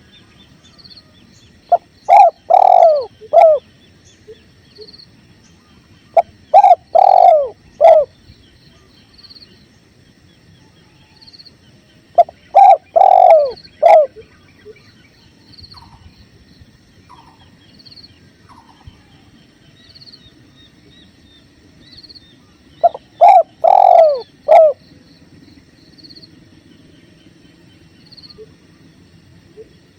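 Spotted dove (tekukur) cooing: four separate multi-note coo phrases, each about a second and a half long and spaced several seconds apart. Behind them runs a steady low rush of flowing river water and a faint high chirp repeating about once a second.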